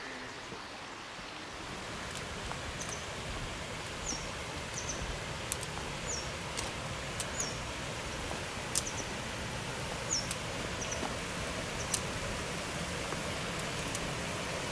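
Steady rush of a mountain waterfall and stream, growing slightly louder, with a small bird repeating short, high, falling chirps every second or so and a few sharp clicks.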